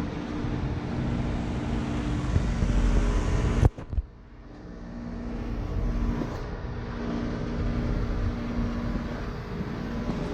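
2006 Heil 3-ton heat pump outdoor unit running in heat mode: steady hum of its Copeland scroll compressor with the condenser fan's rush of air. Nearly four seconds in the sound cuts off sharply after a brief spike, then gradually builds back to a steady run.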